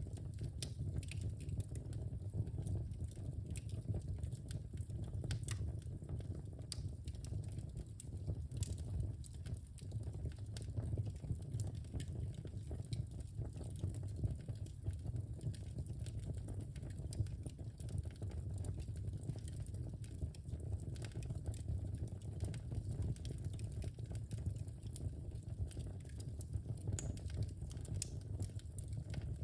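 Wood fire crackling in a fireplace: frequent small, irregular pops and snaps over a steady low rumble from the burning fire.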